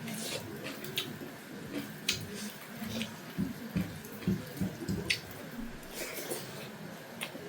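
Close-miked eating of fried pork: sharp wet mouth clicks and smacks scattered through, with soft chewing thuds in the middle, over a steady hiss of heavy rain outside.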